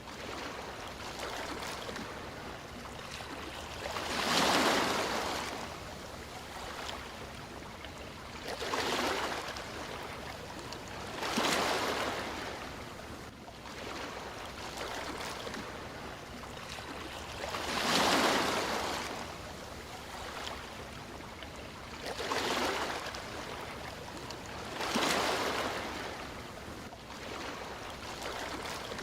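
Sea waves: a steady wash with six surges that each swell and fall away over a second or two.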